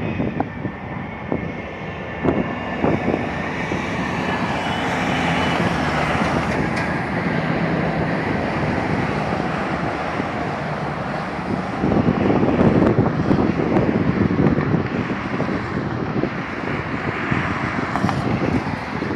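Boeing 747-400 jet engines and rushing air during landing: a steady roar with a high engine whine in the first few seconds, then a louder rumble from about twelve seconds in.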